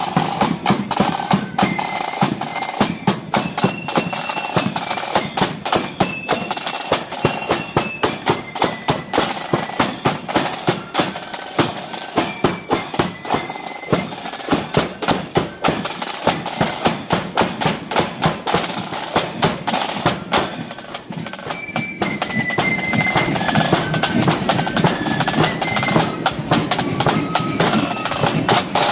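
Marching flute band playing: flutes carrying a high melody over rapid snare drumming with rolls and bass drum beats. The drumming eases briefly about two-thirds of the way through, then picks up again.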